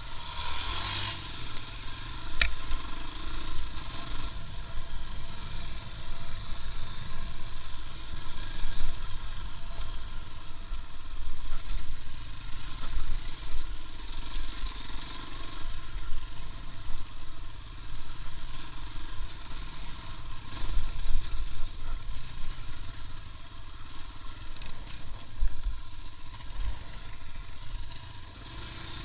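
A motorcycle engine running steadily while under way, with uneven low wind rumble on the microphone.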